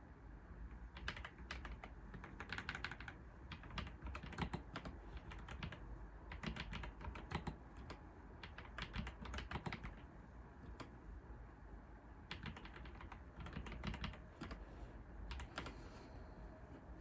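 Typing on a computer keyboard: quick runs of key clicks in bursts, with a short pause a little past halfway.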